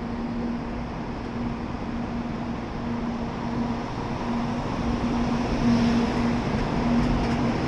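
N700A Shinkansen pulling out of the platform, its running noise growing steadily louder, with a faint pulsing hum over the rumble.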